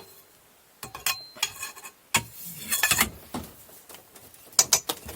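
Steel hand tools, a socket and wrench, clinking and knocking against metal: several sharp separate clinks, some briefly ringing, with the loudest pair near the end.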